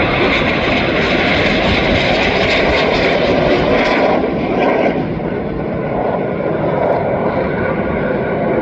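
Fixed-wing aircraft flying a display pass, its engines a loud steady rush that eases a little about five seconds in.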